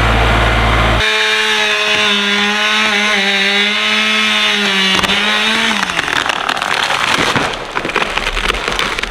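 A deep low rumble cuts off about a second in. A small engine then runs at a steady high speed for several seconds before its pitch drops, and wood cracks and snaps in quick bursts near the end.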